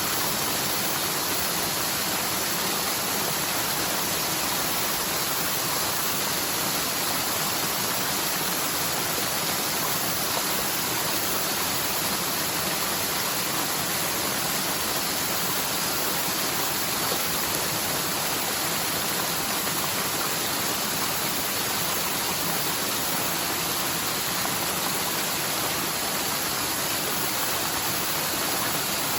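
A forest mountain stream, normally almost dry and running only after typhoon rain, rushing down the slope in a steady, unbroken rush of water.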